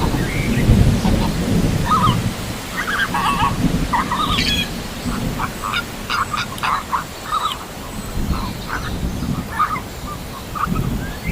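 A flock of flamingos calling: many short calls overlapping and following one another, over a low rumbling noise.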